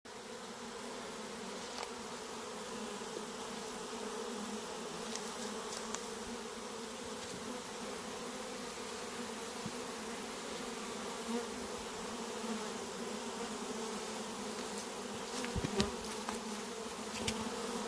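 A honey bee swarm buzzing: a steady, dense hum, with a few light knocks near the end.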